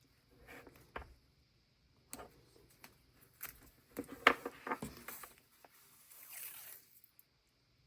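Paper and tape being handled on a desk: scattered rustles and small clicks, a sharp snap about four seconds in, and a longer rasping rustle near the end.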